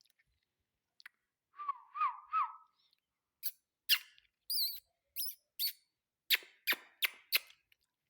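Ringneck parakeet (ring-necked parrot) calling: a brief warbling whistle, then a run of about ten short, shrill, high-pitched chirps and squawks.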